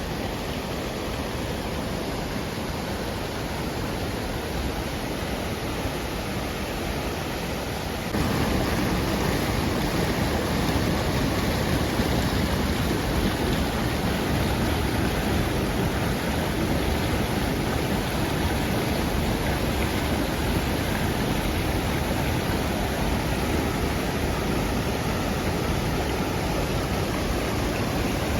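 Waterfall: a steady rush of falling water that becomes suddenly louder about eight seconds in.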